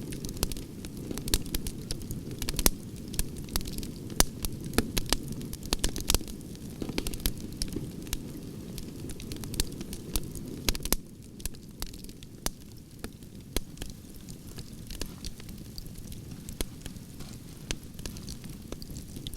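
Wood campfire burning: frequent sharp crackles and pops from the logs over a low steady rush of flame. The low rush drops a little about eleven seconds in.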